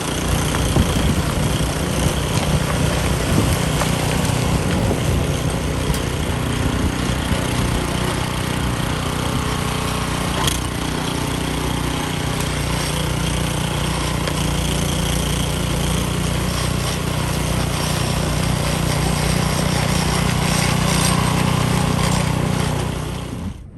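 Snowblower engine running steadily while clearing snow, with a low, even drone. It cuts off abruptly just before the end.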